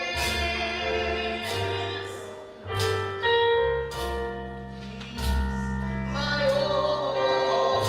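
Gospel choir singing with instrumental accompaniment, held sung notes over bass and chords.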